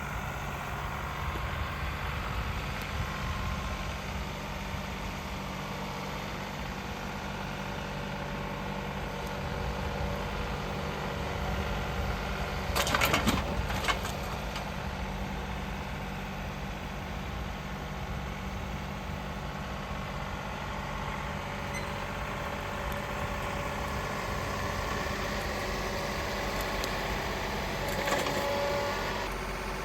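Compact tractor's engine running steadily, with a short, louder burst of noise about 13 seconds in and a smaller one near the end.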